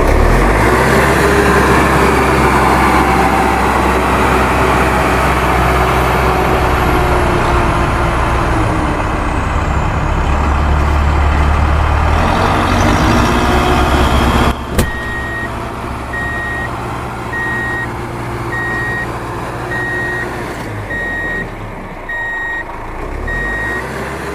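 Heavy vehicle engine running with a deep rumble. About two-thirds of the way in, a sharp click, then a reversing alarm beeps steadily about every three-quarters of a second over the quieter engine.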